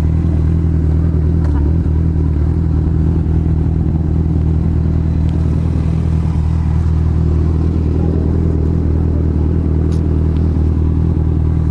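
Motorcycle engine running at a steady speed, one even low drone that holds its pitch throughout, with a rush of riding noise above it.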